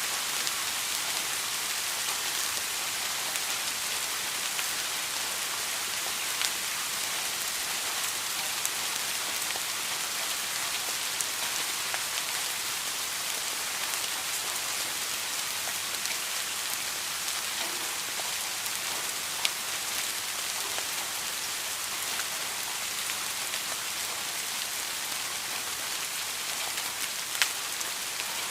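Steady rain falling on a surface, a constant hiss with scattered individual drops ticking through it and a couple of sharper drip hits near the end.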